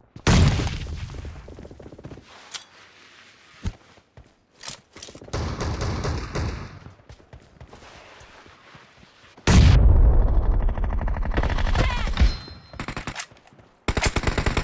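Video game gunfire in a team shooter match: a loud shot at the start, scattered shots, a heavy loud stretch of fire about two-thirds in, then rapid automatic fire near the end.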